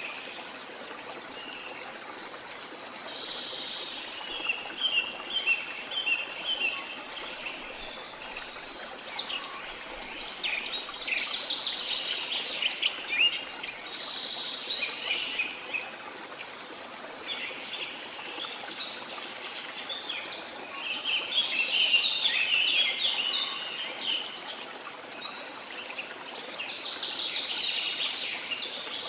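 Birds chirping and singing in repeated bouts of quick, high notes over the steady rush of a waterfall.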